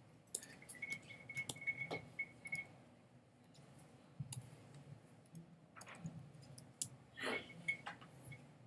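Faint, scattered computer mouse clicks and key taps, busier in the first couple of seconds and again near the end.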